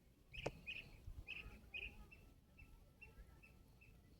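A bird calling: a run of about ten short, high chirps that grow fainter, with a sharp click about half a second in.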